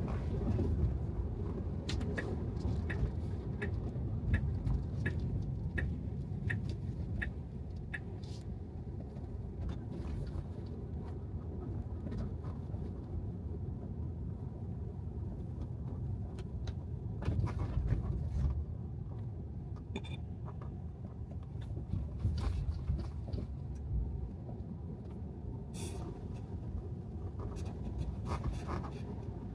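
Tesla Model 3 rolling on wet city streets: a steady low rumble of tyre and road noise. Through the first eight seconds a light ticking repeats about one and a half times a second.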